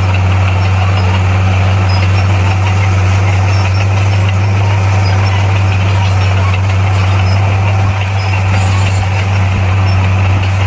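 Bulldozer's diesel engine running with a steady low drone, its speed unchanging.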